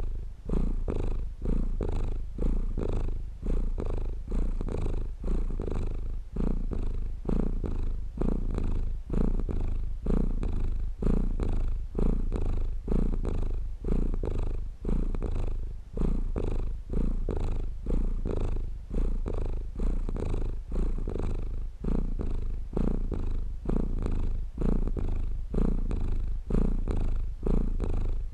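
Domestic cat purring close up: a steady low rumble that swells and dips about once a second with the cat's breaths in and out.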